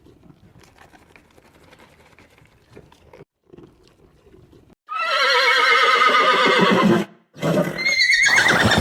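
A horse whinnying twice: a long quavering neigh, then a shorter one falling in pitch. Before them come a few seconds of faint low shuffling.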